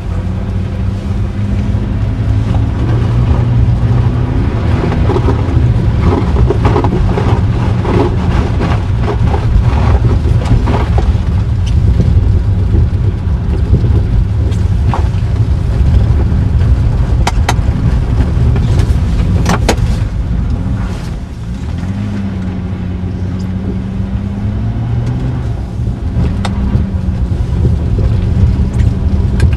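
Inside the cabin of a 1982 Mercedes-Benz 280SE, its straight-six engine runs and revs as the car slides on a wet, icy lot, the pitch rising and falling. Loudness dips briefly about two-thirds of the way through, then climbs again. A few sharp clicks come around the middle.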